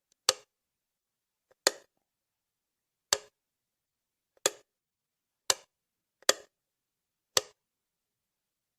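Seven short, sharp clicks with dead silence between them, about a second to a second and a half apart.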